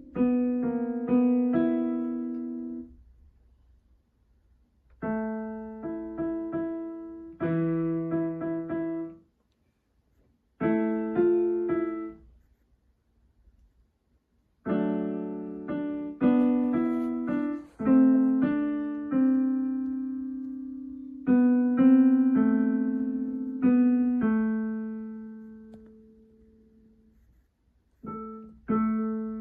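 Donner DDP-60 digital piano played in short phrases of notes and chords in the middle register, broken by pauses of one to two seconds. Near the end, held notes are left to die away.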